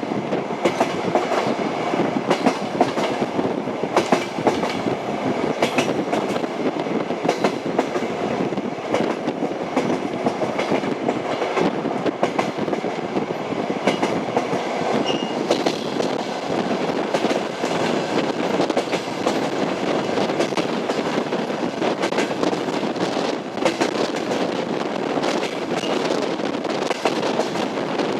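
Passenger train running at speed over jointed rail track: the steady rumble of the carriages with the wheels clicking over the rail joints.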